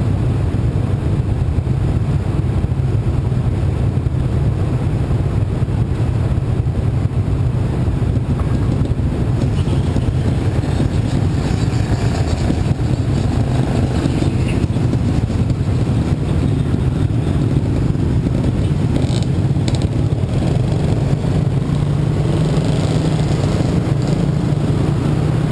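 Small Yamaha motorcycle engine running at low revs while creeping through slow traffic, a steady low hum with the rumble of other motorbikes and cars around it; the engine note grows a little stronger near the end as the bike moves off.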